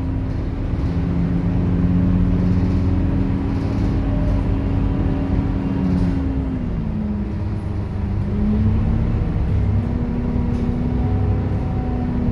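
Scania K230UB city bus's diesel engine running under way, with a steady whine whose pitch drops a little past halfway through, as at a gear change, then climbs again as the bus picks up speed.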